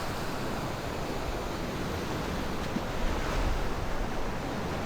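Steady surf of waves washing onto a sandy beach, with wind rumbling on the microphone.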